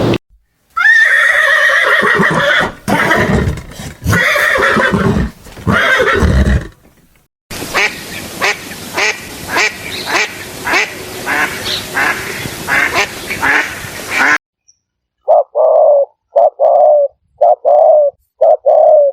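A string of animal calls in three separate stretches. First a long cry with a rising start, then a run of short calls repeated about twice a second, then four identical short calls about a second apart near the end.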